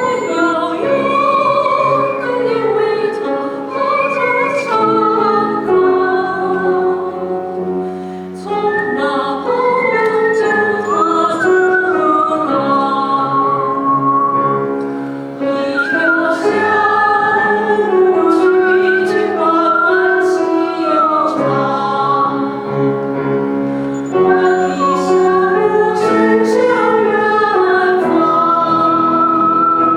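A singer performing a song in a classical, operatic style over instrumental accompaniment. The voice has a wavering, vibrato-laden melody, with brief breath pauses about 8 and 15 seconds in.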